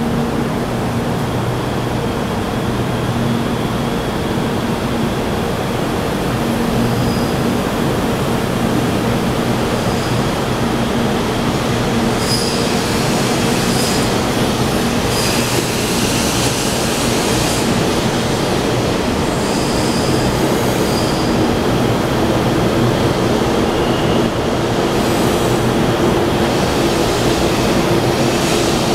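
Taiwan High Speed Rail 700T electric train pulling away from an underground platform: a steady rumble with an electric motor hum whose tones shift as it gathers speed, growing slowly louder. Brief high wheel squeals come now and then through the middle.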